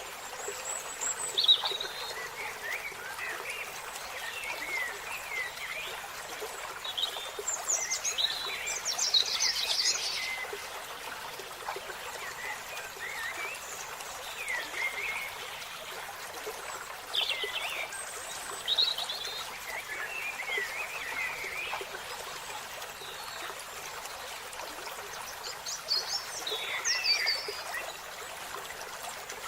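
Wild birds calling: short chirps and whistles in scattered clusters, with a few louder bursts, over a steady hissing background.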